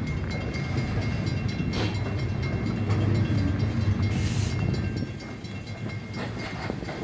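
Loaded coal hopper cars rolling past on the rails: a steady low rumble of wheels on track, with a faint steady squeal and two brief hisses about two and four seconds in. The rumble drops off about five seconds in.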